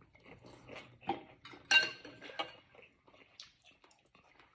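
Eating utensils clinking and tapping against a soup bowl: a few light taps, with one loud ringing clink about halfway through.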